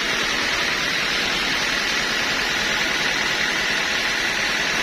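Sawmill machinery running steadily: a continuous loud hiss with a faint, steady high whine running through it.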